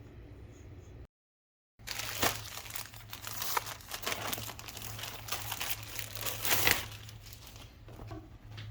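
Plastic packaging crinkling and rustling as it is handled and opened, dense and crackly with many sharp crackles, starting after a short dropout about a second in.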